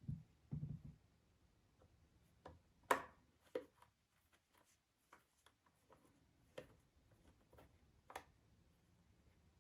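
Scattered light clicks and taps at irregular intervals, with a couple of low thuds in the first second; the sharpest click comes about three seconds in.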